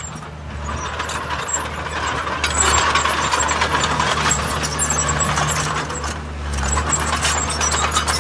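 Heavy diesel earthmoving machinery working: a steady low engine note under continuous metallic clatter and rattling, growing louder a couple of seconds in and again near the end.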